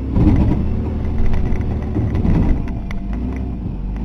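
Ford F-150's 300 cubic inch straight-six engine pulled hard under load while the truck tows a stuck pickup, with rattles and knocks from the truck over rough ground. The engine comes up sharply right at the start and holds a loud, steady rumble.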